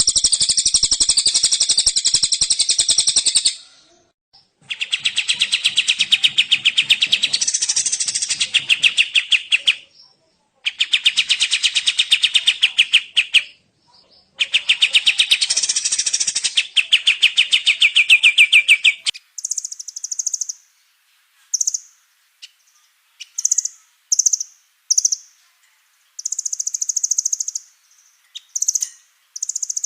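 Kapas tembak and other small songbirds singing: four long, rough, rapid-fire trills of a few seconds each, with short gaps between them. A run of short, high, separate chirps follows after about two thirds.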